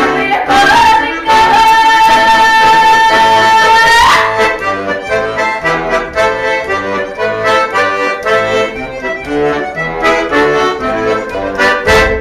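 Solo accordion playing a lively Don dance tune. A long high note is held and slides up about four seconds in, then a quick rhythmic melody runs over pulsing bass chords and closes on a final chord at the very end.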